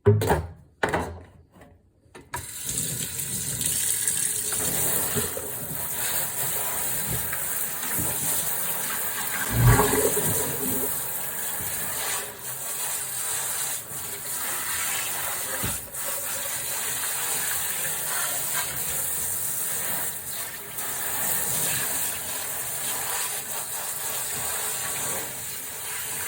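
Tap water running steadily into a kitchen sink during dishwashing, with a dull knock of dishes about ten seconds in and a few lighter clicks later.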